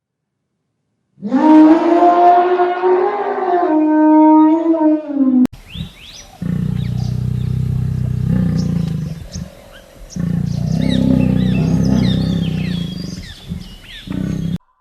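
Animal calls: a drawn-out, wavering pitched call lasting about four seconds, then after a cut a low rumbling sound in two long stretches with small bird chirps above it.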